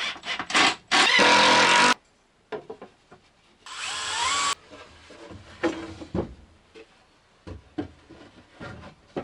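Handheld power drill working wood: a few quick scraping strokes, then the drill runs steadily for about a second and again briefly about four seconds in with its pitch rising, followed by light knocks of boards being handled.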